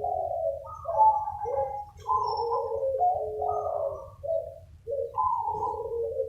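Several zebra doves (perkutut) cooing over one another in a continuous chorus of overlapping calls, with a brief lull a little before the fifth second.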